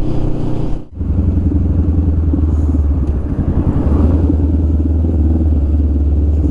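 Honda Rebel 500's parallel-twin engine running steadily under way, with a brief break in the sound about a second in.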